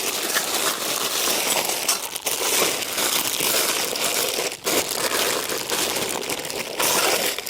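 Continuous rustling and crinkling of fabric and packaging being handled while a camp windscreen is set up, with brief pauses a couple of times.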